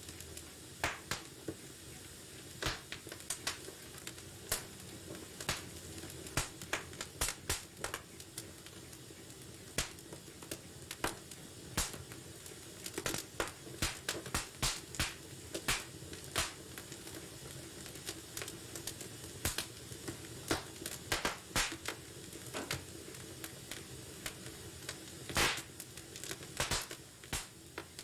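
Wood fire in a fireplace crackling and popping: irregular sharp pops, some in quick clusters, over a steady low hiss of burning.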